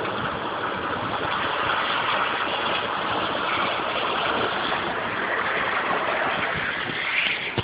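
Storm wind blowing in heavy gusts of about 60-80 mph, a steady rushing noise.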